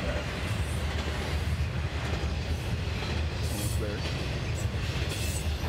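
Norfolk Southern intermodal freight train's container cars rolling past, a steady low rumble of wheels on the rails.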